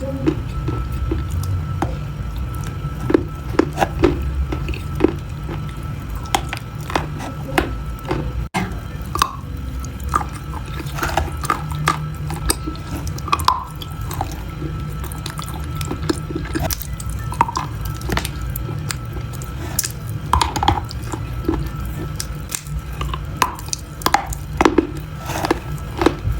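Close-miked ASMR crunch sounds: a run of scattered crisp clicks and crackles mixed with short wet, drip-like plinks, over a steady low background.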